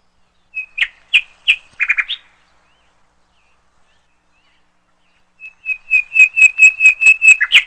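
A songbird singing: a short phrase of a few chirps and a quick trill, then after a pause of about three seconds a longer run of quick repeated notes, about five a second, that grows louder and stops sharply.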